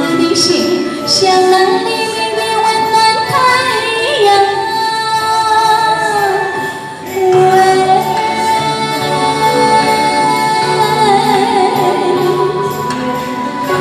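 A woman singing a Chinese song over instrumental accompaniment, holding long notes with vibrato.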